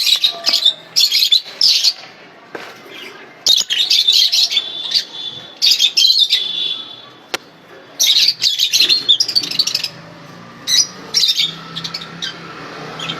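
Young lovebirds chattering: shrill high chirps in dense bursts of a second or two, with short pauses between.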